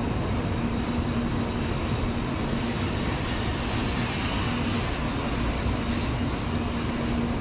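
A Nozomi Shinkansen bullet train rolling slowly alongside the platform: a steady low rumble and hiss, with a hum that keeps fading in and out.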